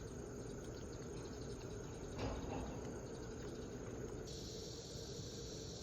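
Field crickets chirring steadily; a high thin trill among them stops about four seconds in.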